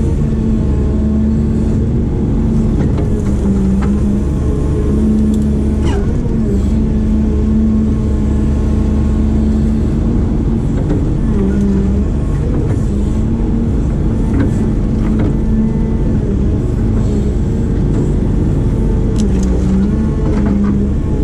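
Diesel engine of a heavy digging machine running steadily under work. Its pitch dips and recovers several times as the load changes.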